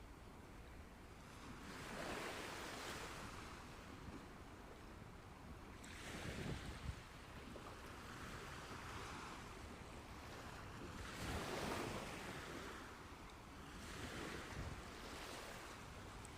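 Mediterranean sea waves breaking and washing in, four swells of surf in turn, each rising and fading away.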